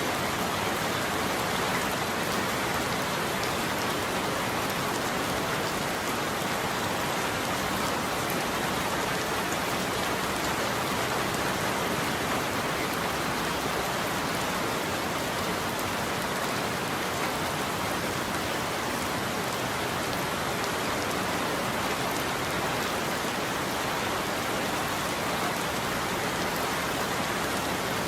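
Heavy rain falling on a roof, a steady even hiss that stays unchanged throughout.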